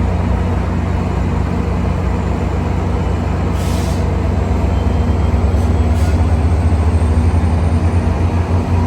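GO Transit diesel locomotive running steadily with a deep, even hum, with a short hiss of air about three and a half seconds in and two brief hisses around six seconds.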